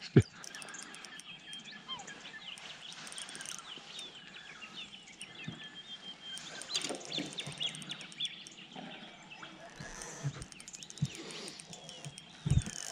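Small birds chirping in many short, quick sliding notes, with a sharp knock at the start and a few knocks near the end.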